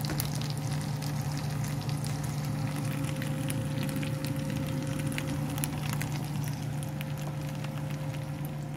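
Chicken pieces frying in a nonstick pan, with scattered small crackles over a steady low hum.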